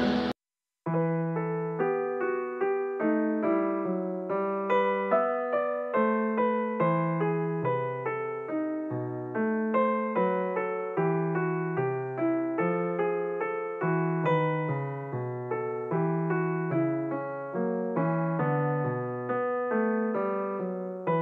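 A live concert recording cuts off abruptly at the start; after a moment of silence, solo piano music begins: a calm melody of evenly spaced notes over low bass notes.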